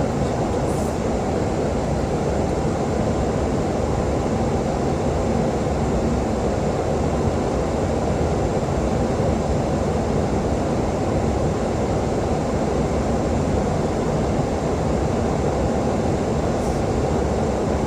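Steady cockpit noise of a Boeing 737-800 in flight: a constant rush of airflow and air conditioning with a low engine hum beneath.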